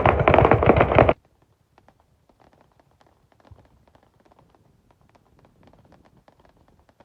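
Rapid barrage of firework bangs and crackles that cuts off abruptly about a second in, leaving only faint scattered clicks.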